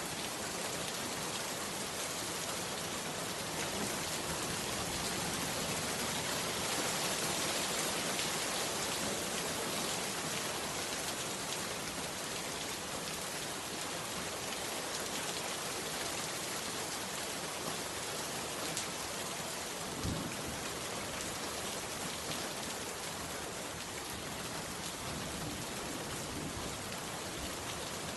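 Heavy rain falling steadily, an even hiss without letup, with one short low thump about two-thirds of the way through.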